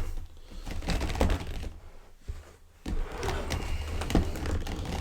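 Irregular light clicks, taps and knocks from a large toy figure being handled and moved into place, with a brief lull in the middle.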